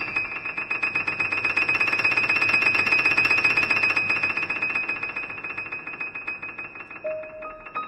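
Background piano music: a fast tremolo of rapidly repeated high notes rings on and fades away from about halfway through. A few single notes enter near the end.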